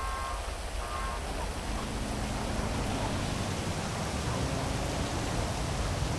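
Heavy rain falling steadily over a city, a constant hiss, with a low traffic hum coming in about a second and a half in. A high tone sounds on and off twice in the first second.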